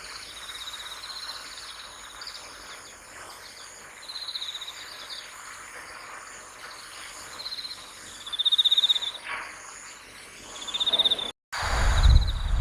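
Crickets chirping in repeated short pulsed trills, with a faint outdoor hiss behind them. Near the end the sound drops out for a moment, and a loud low rumble follows.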